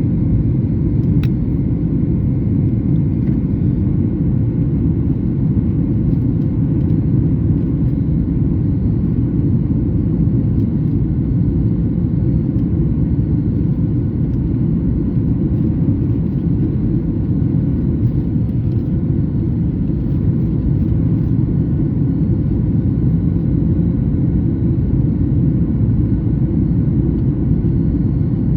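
Steady deep rumble of cabin noise inside a Boeing 737 MAX 8 in flight, engine and airflow noise with faint steady tones over it. A single small click about a second in.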